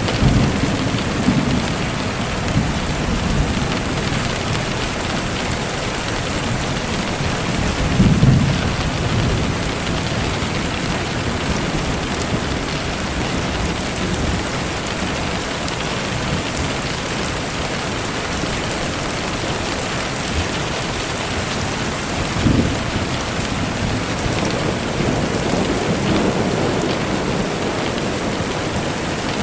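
Steady rain falling, with low rumbles of thunder near the start, about eight seconds in and again about twenty-two seconds in.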